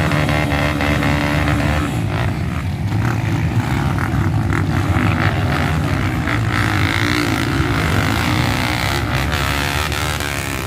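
Dirt bike engines running, the pitch rising and falling as the throttle is worked.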